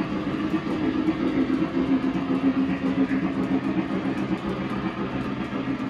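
Lionel O-gauge model train running on track: a steady rumble of wheels and motor with fine rapid ticking.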